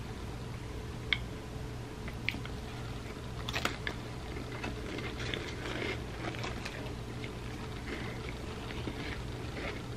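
Chewing and crunching of a chip loaded with peanut-butter chocolate mud pie dip, with sharp crisp bites about one, two and three and a half seconds in, then softer chewing and mouth sounds. A steady low hum runs underneath.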